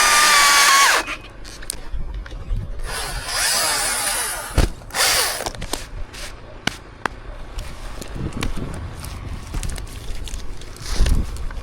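Chainsaw running loudly, then cut off about a second in. Scattered knocks, clicks and brief rustling follow, with one sharper thump a few seconds later.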